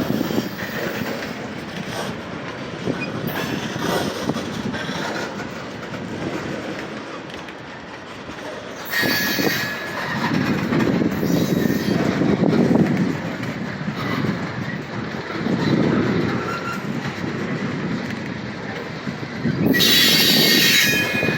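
Slow-moving Norfolk Southern freight train's cars rolling past, a steady rumble and clatter of wheels on rail. Brief high-pitched wheel squeals come about nine seconds in and again near the end.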